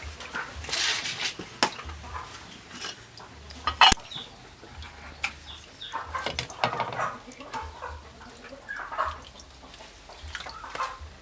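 Chickens clucking on and off, with scattered sharp clicks and knocks. The loudest is a single knock about four seconds in.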